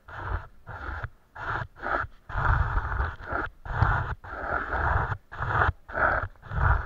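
Paintbrush strokes on paper, close to the microphone: a run of short brushing and scraping strokes, about two a second.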